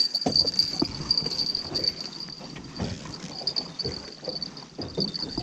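Insects chirring steadily in a high, even band, with scattered light knocks and clatter from handling in the boat.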